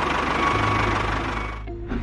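Mini DIY toy tractor's small motor running steadily with a busy whirr, fading out about a second and a half in.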